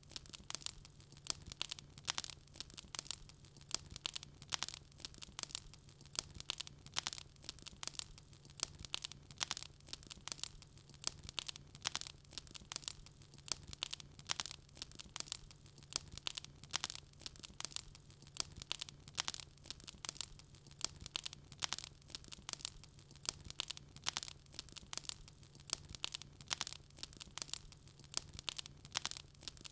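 Wood fire crackling steadily, with dense sharp pops and snaps several times a second over a faint low hum.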